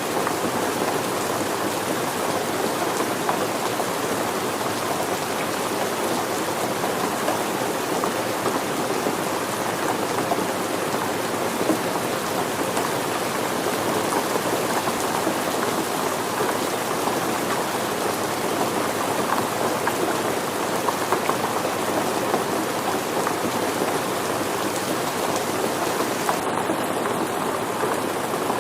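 Steady rain falling, a dense, even patter of drops on surfaces with no let-up.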